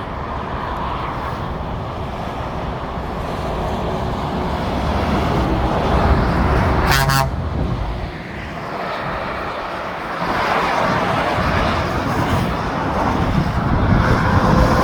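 Motorway traffic rushing past below, with a V8 lorry passing; about seven seconds in it gives a short horn blast, the "tones" truck spotters ask drivers for. More heavy vehicles swell past near the end.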